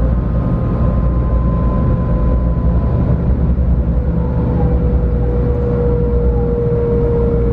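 JR West 500 series shinkansen heard from inside the passenger car: its Toshiba GTO VVVF inverter and traction motors whine over a steady running rumble, the whine falling slowly in pitch.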